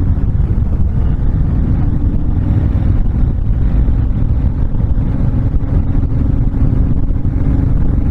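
Honda VTX1300's V-twin engine running at a steady cruise, a continuous low rumble.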